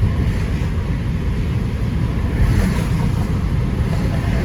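Steady low rumble of tyres and engine heard inside a moving Toyota Corolla's cabin, with a brief swell of higher hiss about two and a half seconds in.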